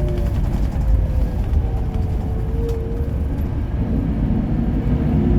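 Bus engine running with a steady low rumble and a faint whine drifting slowly in pitch.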